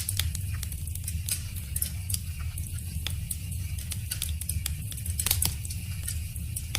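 Wood fire crackling: irregular sharp pops and snaps over a steady low rumble, with a cluster of louder pops a little past five seconds in.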